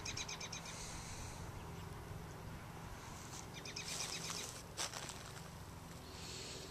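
Faint outdoor birdsong: short runs of rapid, high chirping trills near the start and again about four seconds in, with a single sharp click just before five seconds.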